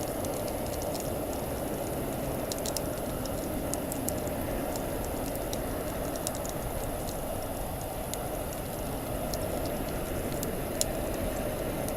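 Wood campfire burning: scattered sharp crackles and pops over a steady rushing noise, with one louder pop near the end.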